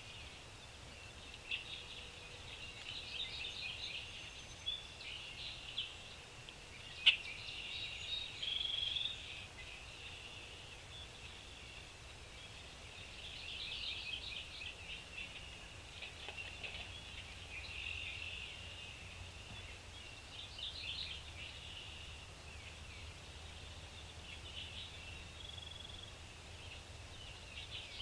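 Small birds chirping in short clusters of rapid high notes that come and go every few seconds, with one sharp click about seven seconds in.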